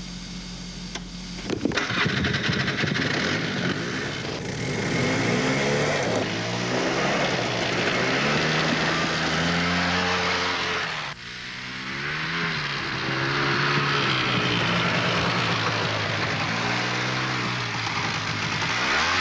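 Car engine running and accelerating. Its pitch climbs, dips sharply about eleven seconds in, and then rises again.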